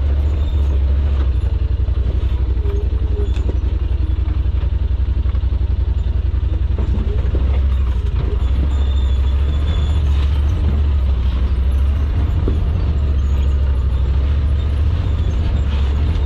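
Side-by-side UTV engine running steadily at low revs, a deep continuous hum with light rattling, as the machine creeps down a steep, rough trail held back by engine braking.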